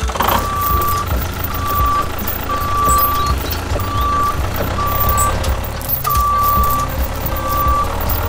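Heavy engine rumble with a single high-pitched beep repeating at uneven lengths, like a vehicle's reversing alarm, as the sound of the toy tractor hauling on the chain.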